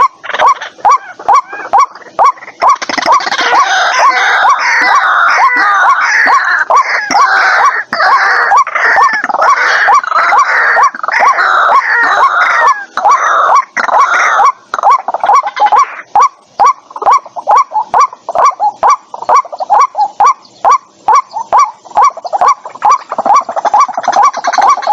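White-breasted waterhen calling: a fast run of loud, repeated notes. About three seconds in it swells into a dense, harsh stretch of overlapping calls, then eases back to the repeated notes at about fifteen seconds.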